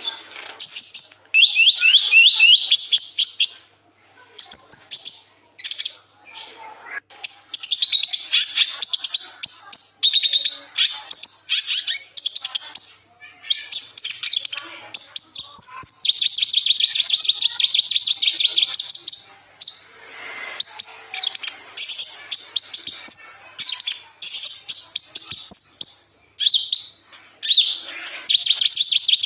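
Kolibri ninja sunbird singing: high-pitched, fast twittering phrases of rapid trills and short chips, broken by brief pauses, with one longer unbroken trill about halfway through.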